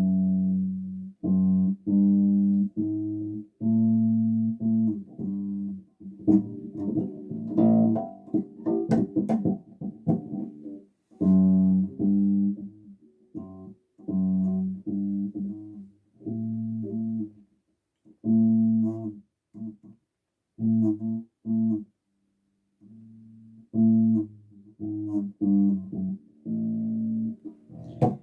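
Electric bass guitar played solo: a line of separately plucked notes with short gaps between them, with a busier, faster run of notes about a third of the way in.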